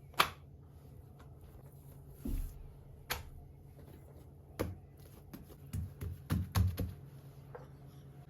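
Kitchen handling sounds: dishes and utensils being picked up and set down, making a few sharp clicks and knocks, a sharp one just after the start and a quick cluster near the end, with a duller thump in between, over a steady low hum.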